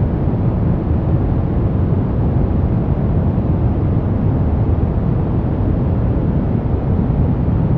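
Brown noise: a steady, deep rumbling hiss with most of its weight in the bass and little treble, unchanging throughout.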